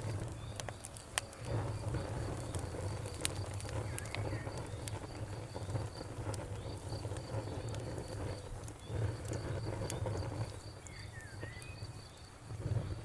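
Wood fire crackling with scattered sharp pops over a steady low rumble, while a cricket chirps in an even, rapid pulse and a bird gives a few short falling chirps near the end.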